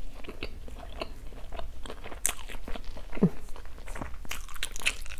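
A person chewing a soft, sticky bánh bao chỉ, a glutinous rice ball coated in dried coconut with mung bean filling, with irregular mouth clicks and smacks.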